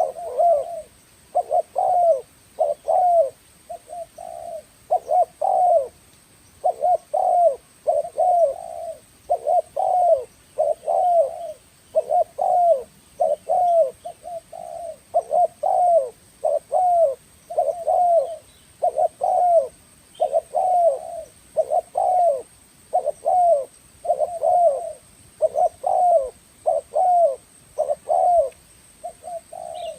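Spotted dove (tekukur) cooing over and over: short, low coo notes a little more than one a second, with hardly a pause. This is the call used as a lure for tekukur.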